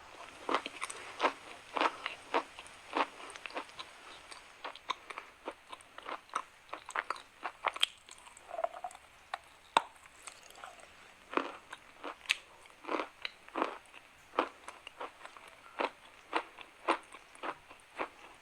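Chalk being crunched: a long, irregular string of short, sharp crunches, roughly two a second.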